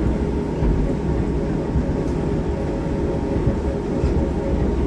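Steady low rumble of a moving passenger rail vehicle heard from inside the car, with a faint constant hum over it.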